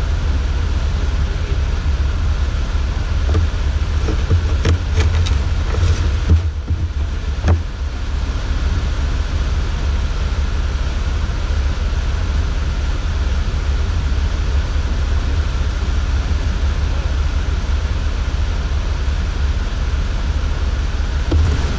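Steady driving noise inside a 4x4's cabin: a strong low rumble with a hiss across the range, typical of engine, tyres and wind while driving through a blizzard. A few light clicks come about five seconds in.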